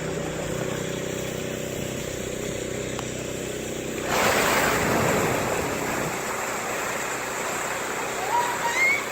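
Steady drone of an airliner cabin in flight, a hum with several fixed pitches. About four seconds in, a rushing noise swells up for a couple of seconds and fades. A short rising pitched sound comes near the end.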